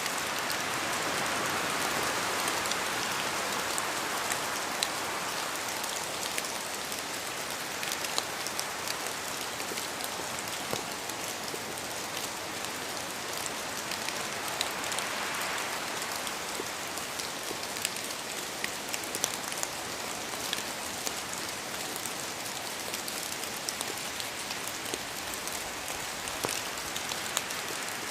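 Steady rain falling in a forest, with many individual drops ticking sharply. The rain noise swells twice, near the start and about halfway through, like gusts of wind through the trees.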